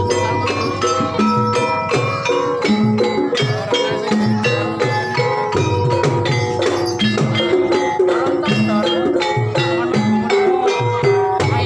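Banyumasan traditional music: tuned mallet percussion plays a steady, busy melody over regular low drum strokes.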